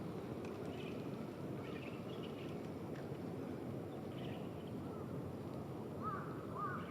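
Steady outdoor background noise with faint small-bird chirps now and then, and near the end a bird giving several short arched calls.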